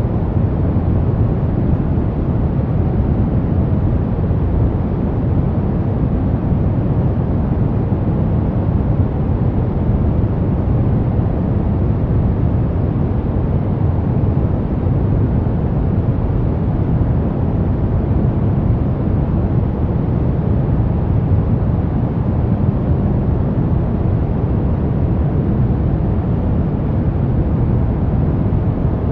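Brown noise: a steady, deep rushing hiss, loudest in the bass and fading toward the treble, with no change throughout.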